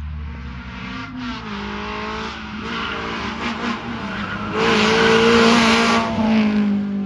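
Rally car engine running at high revs, with a shift in pitch about a second in. It grows loudest a little past halfway as the car comes close.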